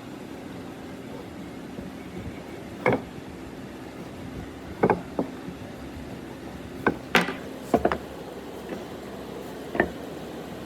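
Irregular sharp knocks and clicks of hand work at a woodworking bench, about seven in all, some in quick pairs, over a steady hum.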